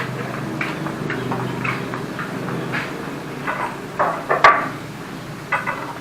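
A string of light knocks and clicks from wooden parts of a lathe stand being handled and fitted into place, with a few louder knocks about four seconds in, the sharpest near four and a half seconds.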